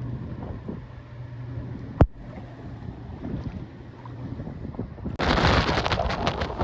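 Light wind with a low steady hum and a single sharp knock about two seconds in. About five seconds in, loud hurricane wind buffeting the microphone starts suddenly.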